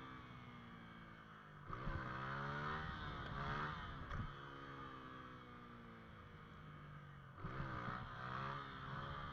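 Motorcycle engine revving up hard twice, about two seconds in and again near the end, its pitch falling back as it slows between the throttle bursts.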